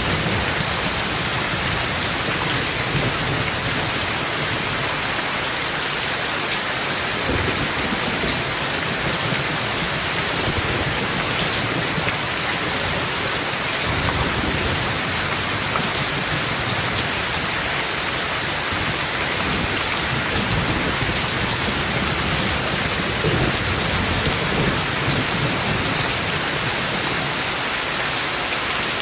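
Heavy rain falling steadily, with low rumbles of thunder coming and going every several seconds.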